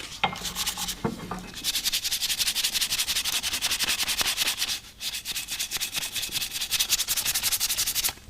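240-grit sandpaper scraping in rapid, even back-and-forth strokes over an oxidised aluminium wiper arm, taking the oxidation off. A couple of light knocks come first, the sanding starts about a second and a half in, and it breaks off briefly about five seconds in.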